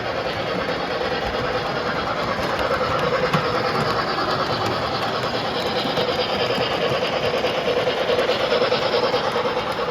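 MTH O-gauge model steam locomotives running around a layout: the steady whirr of their motors and wheels rolling on the track, with a constant hum.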